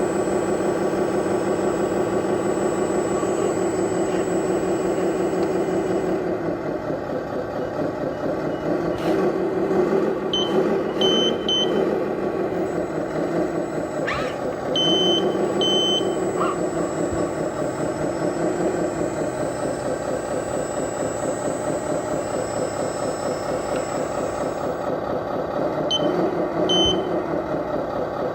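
Diesel truck engine sound of an RC Scania 8x8 dump truck, running and revving up in a few swells. Short high reversing beeps sound in groups of two or three: three beeps about ten seconds in, two around fifteen seconds and two more near the end.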